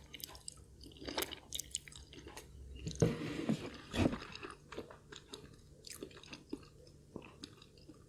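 A person chewing food close to the microphone, with wet smacks and clicks, and a louder burst of eating noise about three to four seconds in.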